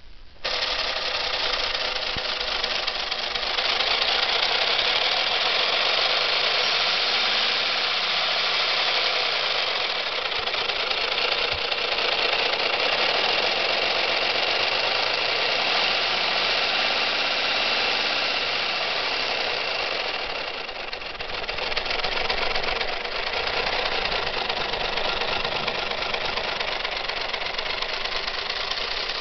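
Lego Technic pneumatic V6 engine running fast on compressed air, about 1000 rpm: a steady hiss of air with a mechanical rattle from the plastic pistons and valves. It starts about half a second in and dips briefly about two-thirds of the way through.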